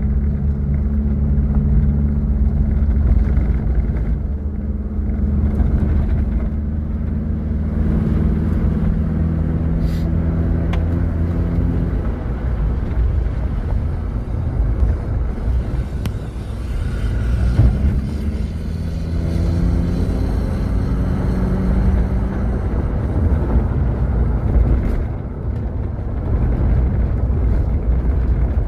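Off-road 4x4 engine working under load, revving up and down with a heavy low rumble as the vehicle crawls over rough ground.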